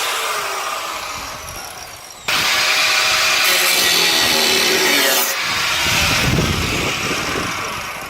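A power cutting tool working on car-body sheet steel. It winds down with a falling whine over the first two seconds, then starts again suddenly and cuts steadily, changing in tone about five seconds in.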